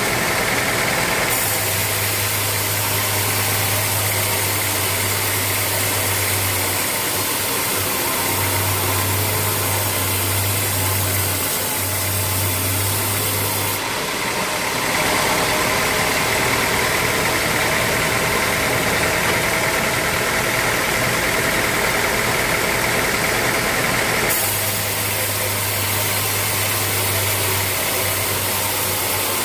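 Sawmill machinery running steadily, its sound shifting between a low hum and a higher-pitched band about a second in, around the middle, and again near the end.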